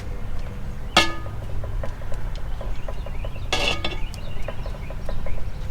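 Metal clink on a cast-iron camp oven about a second in, ringing briefly, then a short scraping rustle around three and a half seconds in, over a low outdoor rumble.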